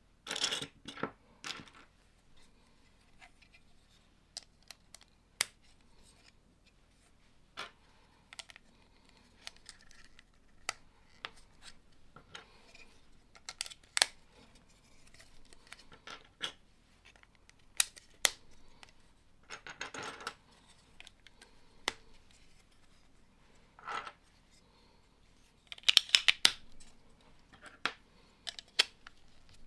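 Plastic Lego bricks being picked up, set down and pressed together: scattered sharp clicks at irregular intervals, with a few short rustling bursts near the start, about two-thirds of the way in and near the end.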